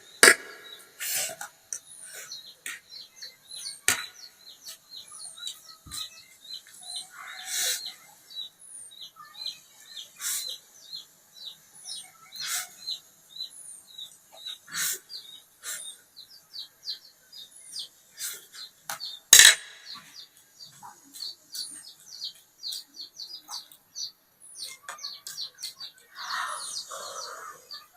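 Chewing and lip-smacking with scattered sharp clicks, one louder smack about two-thirds of the way through. Short high chirps repeat about once a second behind it.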